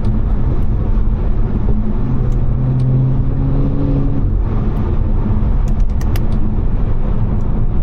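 Tuned BMW 540i's turbocharged B58 inline-six running while driving, with constant road rumble; its pitch climbs a little about three seconds in, then eases off. A few faint sharp ticks come near the middle.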